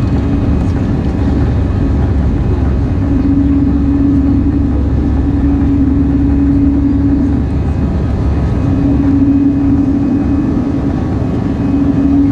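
Steady low engine rumble with a hum that swells and fades every few seconds.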